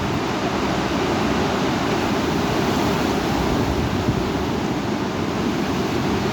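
Heavy thunderstorm wind blowing hard, a loud, steady noise that is heaviest in the low end, with wind buffeting the microphone.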